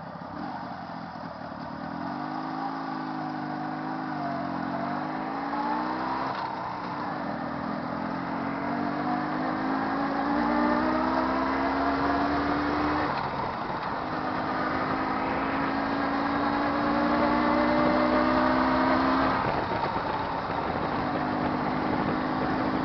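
Jawa 638's two-stroke twin engine, warmed up, pulling away and accelerating, its pitch climbing in each gear and dropping at three gear changes. It runs evenly.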